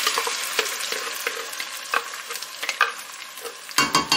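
Blended pepper and onion purée sizzling in hot palm oil in a pot, the sizzle slowly fading, while a spatula scrapes the purée out of a plastic blender cup with scattered clicks and scrapes. A few sharper knocks come near the end.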